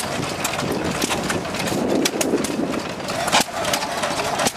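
Vintage stationary engines running, with irregular sharp knocks and pops over a steady mechanical background.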